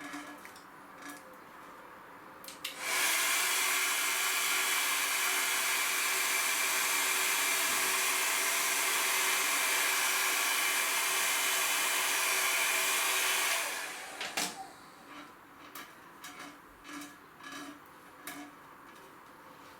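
A handheld hot-air blower runs steadily for about eleven seconds. It switches on about three seconds in and off near fourteen seconds, with a faint whine over the rush of air. Light clicks and taps of handling come before and after it.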